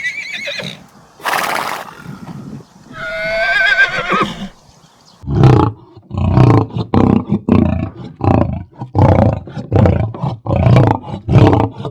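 A horse whinnying: a short breathy burst, then a wavering neigh about three seconds in. It is followed by a run of short, low animal calls, about two a second, to the end.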